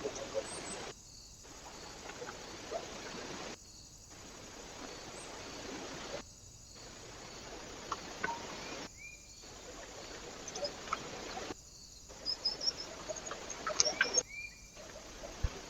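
Small birds at a feeder picked up by a trail camera's hissy microphone: a few short chirps and light clicks and taps, busiest near the end. The sound comes in short pieces about two and a half seconds long, each cutting in and out abruptly.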